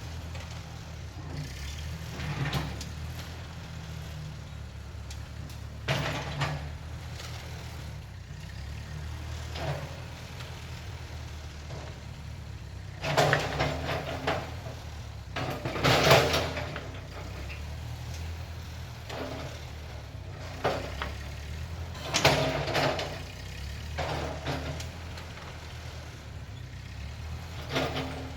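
Tractor engine running steadily, with loud clanking and screeching events every few seconds, the loudest near the middle.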